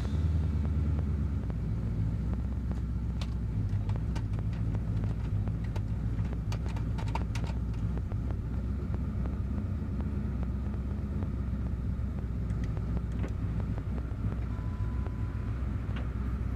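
Twin-turbocharged Ford 4.6 two-valve SOHC V8 with custom-ground Bullet camshafts idling steadily on an unadjusted tune, a low rumble with a few light ticks.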